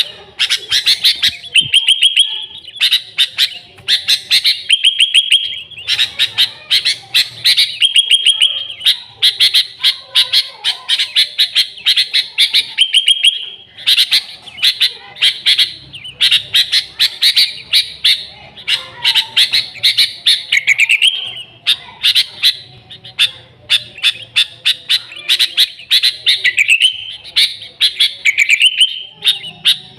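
Sooty-headed bulbuls (kutilang) calling busily: dense runs of quick, loud chirps with short pauses between phrases, some phrases sliding upward in pitch.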